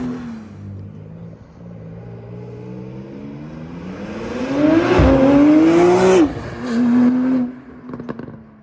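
Porsche 911 Turbo S's twin-turbo flat-six running through a titanium valved exhaust: settling near idle, then revved up in a rising climb that peaks about six seconds in and falls back, with a short held note and a few pops and crackles near the end.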